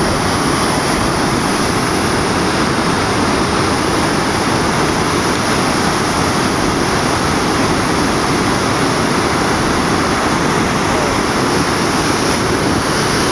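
Floodwater of a swollen river rushing steadily, a loud even wash of water noise.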